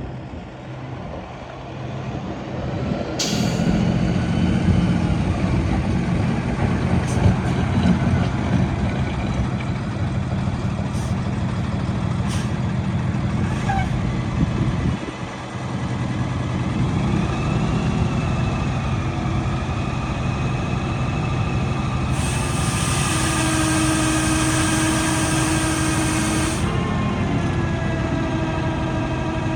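Freightliner M2 106 sweeper truck's diesel engine running steadily, getting louder a few seconds in, with a few sharp clicks and a loud hiss of about four seconds three-quarters of the way through.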